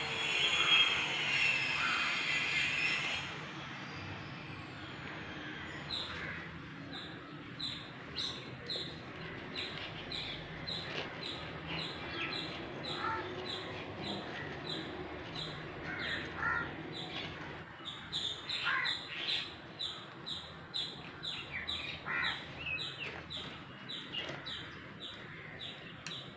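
A loud rushing noise with a slowly falling whistle that fades out about three seconds in. Then a bird chirps over and over, short quick chirps about two a second.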